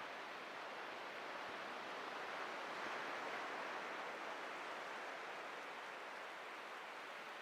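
Atlantic surf washing on a beach: a steady hiss of breaking waves that swells about three seconds in and eases off again.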